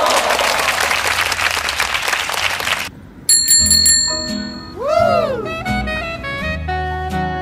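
A loud rushing noise for about three seconds, then a bell rings several quick times and a whistle-like tone swoops up and back down, followed by music.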